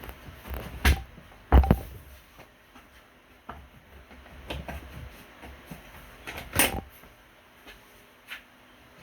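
Irregular knocks and clicks of objects being handled, about five in all, the loudest about a second and a half in.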